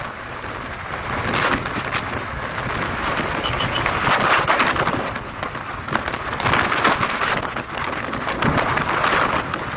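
Wind rushing over the microphone of a Honda Hornet 160R motorcycle on the move, a loud rush that swells and fades every second or two.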